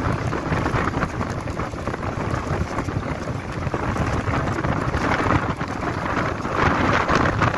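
Strong storm wind gusting: a dense, continuous rushing noise, swelling in gusts about five and seven seconds in.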